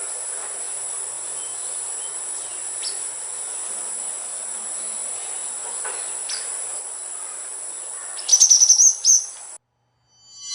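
A steady, high-pitched insect drone from crickets or cicadas, with a couple of faint bird chirps. Near the end a louder quick run of high bird notes comes in, then everything cuts off suddenly.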